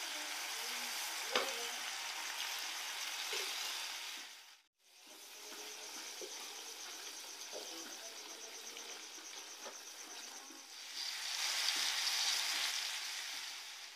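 Pork frying in oil in a metal wok, a steady sizzle, with a sharp knock about a second in. The sound drops out briefly near the middle, and the sizzle swells louder near the end.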